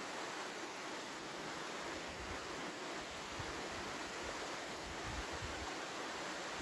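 Waterfall pouring over a rock shut-in into the pool below, a steady rushing of falling water. Low gusts of wind rumble on the microphone now and then.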